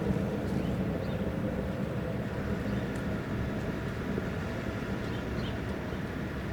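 A train's steady low rumble, even in level throughout.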